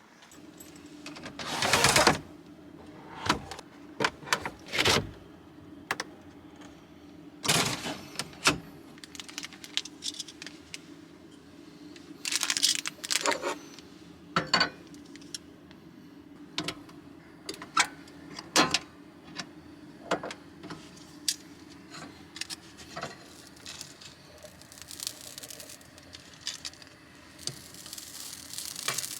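Irregular clicks, clatters and rustling of small objects being handled, some loud, over a faint steady hum.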